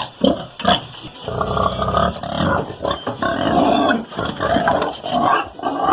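Pig squealing loudly in several long, harsh squeals.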